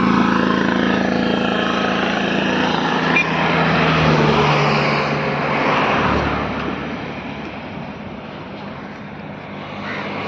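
ATV engine running steadily on the beach; it grows quieter about halfway through and louder again near the end.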